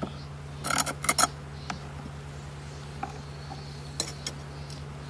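Honeybees humming steadily at an open hive, with a few sharp clicks and clinks of hive equipment being handled about a second in and again near four seconds.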